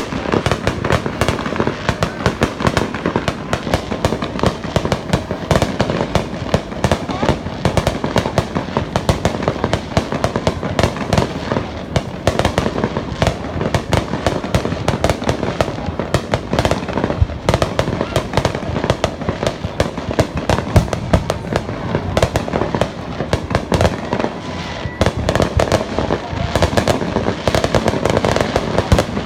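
Fireworks display in a dense barrage: a rapid, unbroken stream of bangs and crackling shell bursts.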